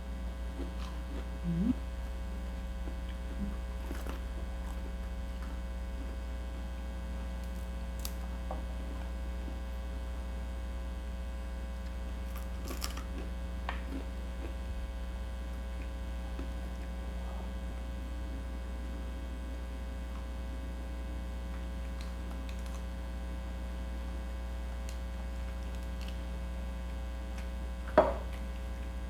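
Steady electrical mains hum with a stack of even overtones, with a few faint short clicks and one sharper click about a second before the end.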